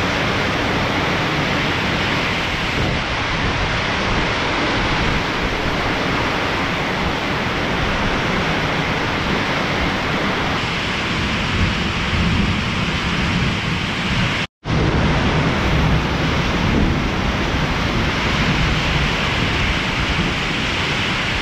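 Heavy thunderstorm downpour: dense, steady rain driven sideways by the wind, with a low rumble underneath. The sound cuts out for a split second about two-thirds of the way through.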